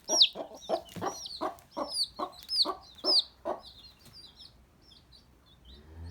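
Chickens clucking in a quick run of short notes, about two to three a second, with high, falling peeps mixed in. The calls thin out and fade after about three and a half seconds.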